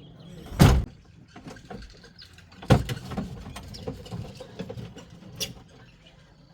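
Two loud knocks about two seconds apart, with many small clicks and rattles between and after them.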